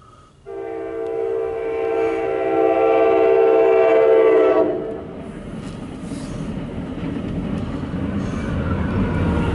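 A MARC commuter train's multi-tone air horn sounds one long blast, growing louder as it nears the crossing, and stops just before the midpoint. The train then rumbles past close by, with the diesel locomotive pushing at the rear and the wheels running on the rails.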